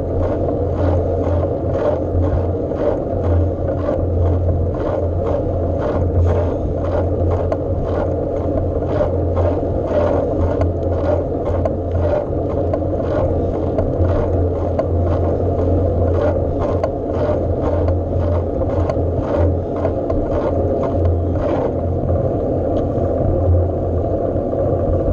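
Steady low rumble of a bike on the move, recorded on board, with frequent sharp clicks and rattles that die away about 21 seconds in.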